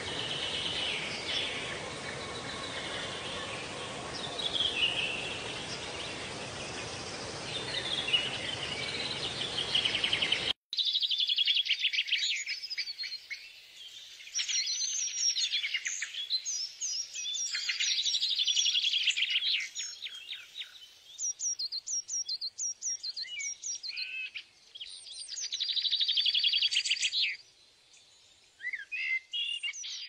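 Small birds singing and chirping. At first the calls sit over a steady background hiss; after an abrupt cut about ten seconds in, clear, fast, high trills and chirps follow in phrases with short gaps.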